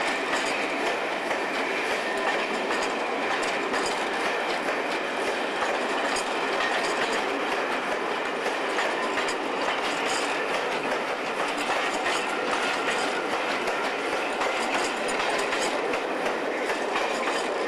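Locomotive-hauled passenger coaches rolling past at close range: a steady rolling rumble with the clickety-clack of wheels over rail joints.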